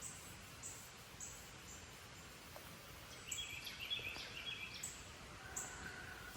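Faint outdoor ambience: a short high chirp repeats steadily about twice a second, with a brief patch of busier, lower chirping midway.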